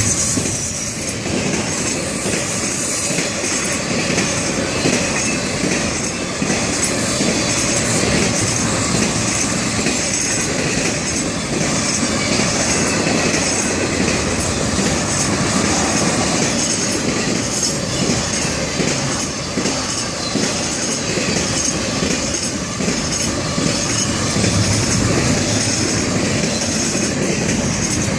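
Florida East Coast Railway freight train 101's cars rolling past at track side: a steady, loud run of steel wheels on rail.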